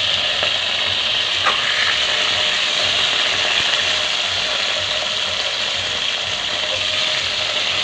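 Pointed gourd (parwal) pieces frying in hot oil in an open pressure cooker, a steady sizzle, while a metal spatula stirs through them. A light click comes about a second and a half in.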